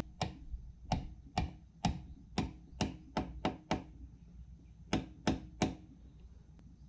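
Hammer tapping: about a dozen sharp knocks, nine in quick, uneven succession, then a pause of about a second and three more.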